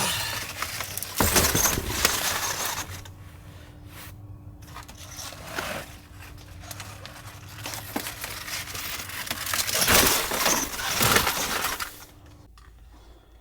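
Things being handled and moved: bursts of rustling, scraping and clatter, loudest about a second in and again about ten seconds in, over a steady low hum.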